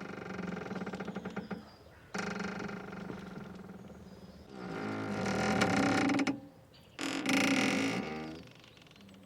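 Boat mooring ropes creaking and squeaking as they stretch and rub under strain: four drawn-out, pitched squeaks, each one to two seconds long, the loudest two in the second half.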